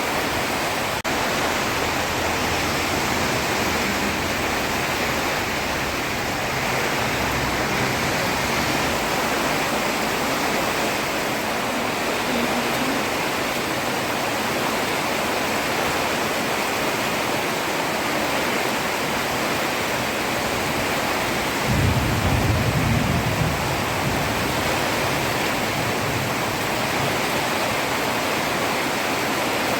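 Heavy rain pouring steadily onto a road, an even hiss. About two-thirds of the way through, a brief low rumble rises over it for a second or so.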